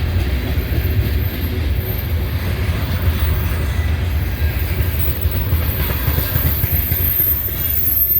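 Long freight train rolling past at speed: a steady, loud low rumble of wheels on rail as the cars go by.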